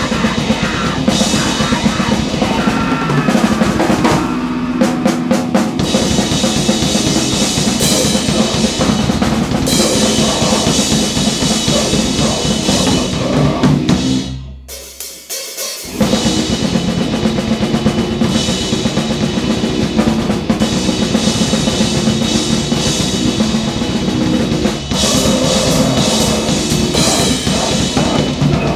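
Grindcore/noise band playing: loud, dense distorted music over pounding drums and snare. It breaks off for about a second and a half near the middle, then starts again.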